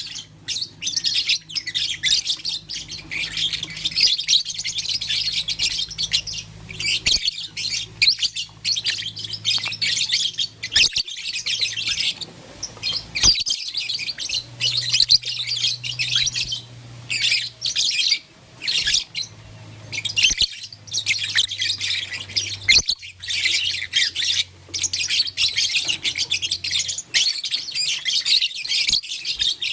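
Several lovebirds chirping rapidly and almost without pause, in high-pitched chatter broken by brief gaps.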